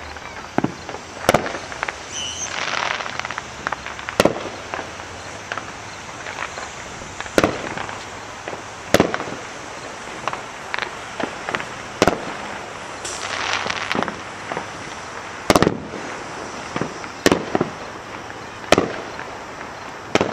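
Distant aerial fireworks going off: about a dozen sharp booms at irregular intervals, a second or several apart, with a couple of stretches of crackle after bursts.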